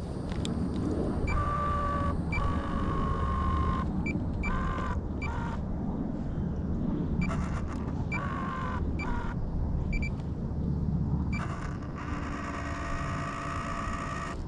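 A high whine from a small electric motor, switching on and off in several short spells, over a steady low rumble.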